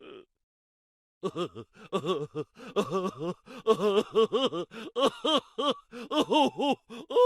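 Funny vocal sound effect: a rapid run of short voiced syllables, each swooping up and down in pitch, in a laughing, chattering rhythm. It starts about a second in.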